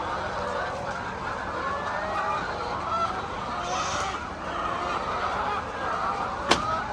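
A flock of hens clucking and calling, many short overlapping calls at once. A single sharp click sounds near the end.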